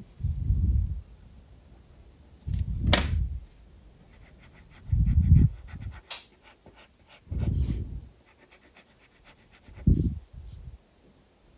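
Graphite pencil strokes rubbing across sketchbook paper in five or six short bursts about two seconds apart, with fine scratchy ticks in between.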